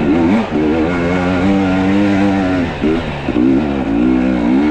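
Two-stroke enduro motorcycle engine working under load on a climb, its pitch rising and falling as the throttle is worked, with a brief dip about three seconds in.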